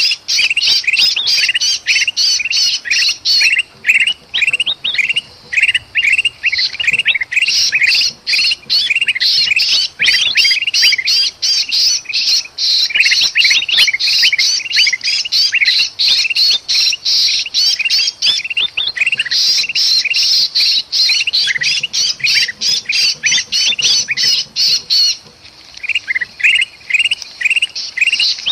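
Bulbuls calling in agitation: a rapid, dense chatter of sharp chirps and squawks from kutilang emas mixed with the distress calls of a trapped sooty-headed bulbul, a mobbing-style lure sound. It pauses briefly near the end.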